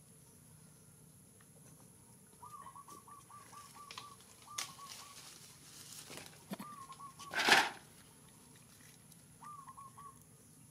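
A bird calling with runs of short, quick, evenly spaced chirps, several bouts in a row. A brief loud rustling burst comes about two thirds of the way through.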